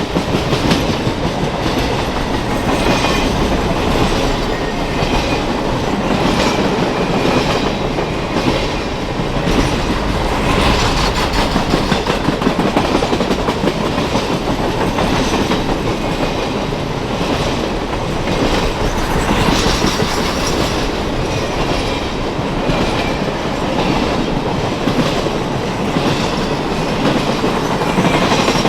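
Norfolk Southern Triple Crown RoadRailer train rolling past, its wheels clicking in a steady rhythm over the rail joints beneath a continuous rumble.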